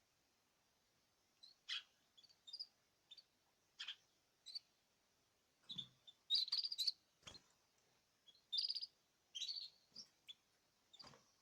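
Caged birds chirping in short, high calls with gaps between, and a quick run of chirps about six seconds in. A few soft knocks come in among the calls.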